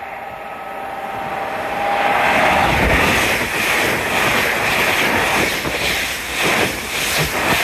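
LNER Azuma electric multiple unit running through the station at high speed under the wires. A steady whine at first gives way to a loud rush of wheel and air noise that holds for several seconds as the train passes.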